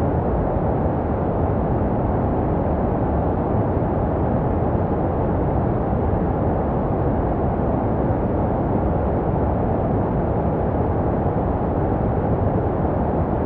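Steady, unchanging white noise with a deep, muffled character: most of its energy is low and it has little treble. It is a sleep-noise track meant to soothe a crying or colicky baby, shaped to resemble the sound heard in the womb.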